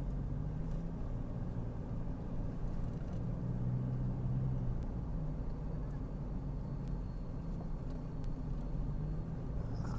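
Car engine and road noise heard from inside the cabin while driving: a steady low hum that swells slightly about four seconds in.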